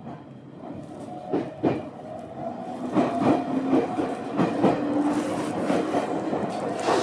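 Ueda Electric Railway electric train running, heard from inside the car: a steady rumble with the wheels clicking over rail joints several times, growing louder about three seconds in.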